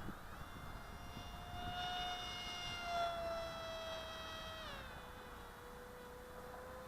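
Motor and propeller whine of a radio-controlled flying wing in flight. The whine is steady, then drops in pitch about two-thirds of the way through.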